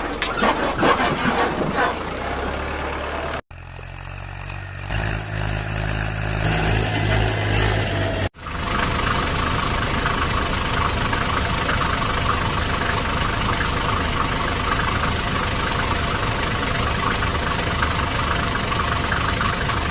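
Engine sound running steadily, broken by two abrupt cuts about three and a half and eight seconds in. After the second cut it runs on evenly.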